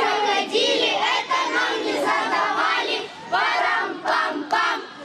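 A group of children singing their squad song together, loud, in short phrases with brief breaks.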